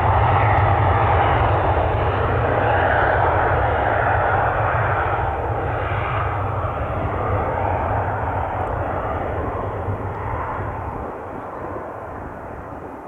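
Fixed-wing airplane engine noise during a takeoff departure from the runway. It is loudest at first, then fades steadily as the aircraft climbs away, with a deep rumble under a broad roar whose pitch slides as it passes.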